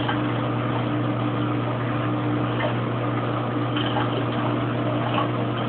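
Kenmore Oasis top-load washing machine in its spin cycle, a steady low hum from the motor and spinning drum as it works up toward high spin.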